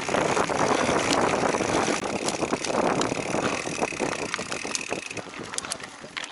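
Full-suspension mountain bike ridden over a rough dirt trail: tyres and frame rattling and clattering over the ground, with wind buffeting the microphone. Loud at first, easing off toward the end.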